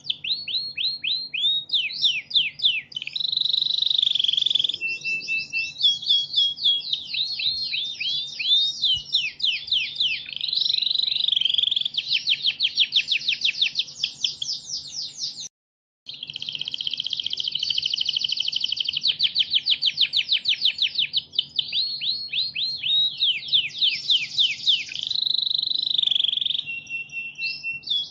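Domestic canary singing a long, continuous song of fast trills and rolling phrases, with a brief break about halfway through. A faint steady low hum runs underneath.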